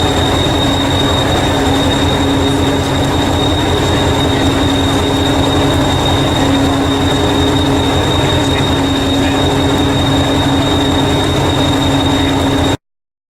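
Miniature Class 73 locomotive running: a steady high whine over a fast low throb, cutting off suddenly near the end.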